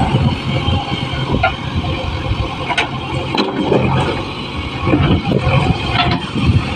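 JCB backhoe loader's diesel engine running under load, with scattered sharp knocks and clanks.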